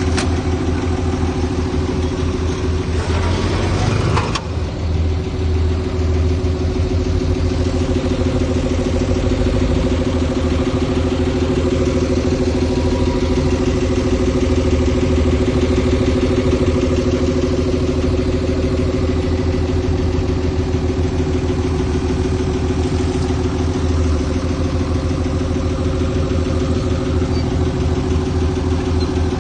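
Diesel engine of heavy earthmoving machinery running steadily. About four seconds in there is a brief rush of noise that ends in a clunk.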